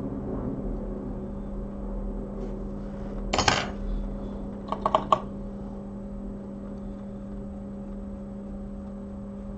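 Small metal tools clinking on a repair bench: a short scrape just over three seconds in, then three quick ringing clicks about five seconds in, over a steady electrical hum.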